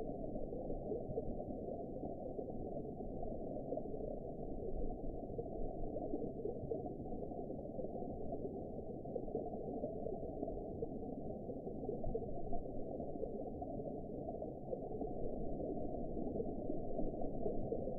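Underwater ambience: a steady, muffled, low-pitched rush of water with a faint churning texture and nothing in the higher pitches.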